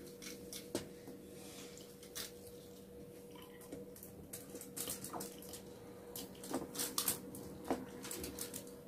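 Close eating sounds: wet chewing and mouth smacks and clicks, with light crackles of fingers picking rice and food off aluminium foil, thicker in the second half.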